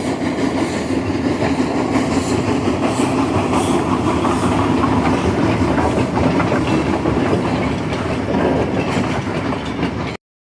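Steam locomotive running along the track, a loud steady rumble that cuts off suddenly near the end.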